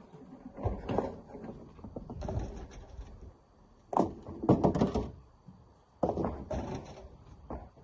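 Rocks being thrown into a dump truck's bed: several heavy thuds, each followed by a short clatter as the stones settle.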